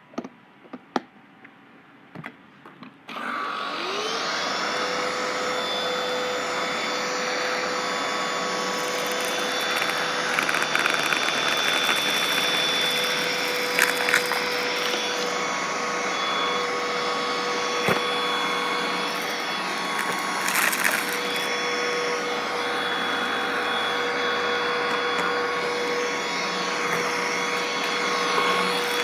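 Black & Decker vacuum cleaner switched on about three seconds in, its motor whine rising quickly to a steady pitch. It then runs steadily, with a few short crackles and clicks as crunchy debris is sucked up.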